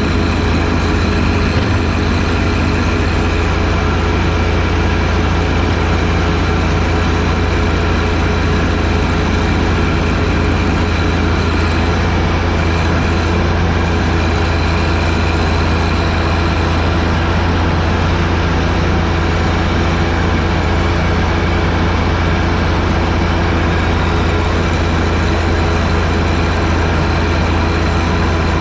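John Deere 1025R tractor's three-cylinder diesel engine running at a steady speed, a constant low drone that does not change.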